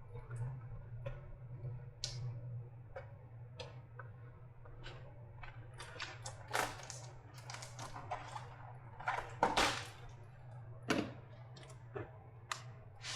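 Tape being peeled and pulled off a lithium-ion battery pack by hand: irregular clicks and short crinkling rips, the loudest a few seconds before the end, over a steady low hum.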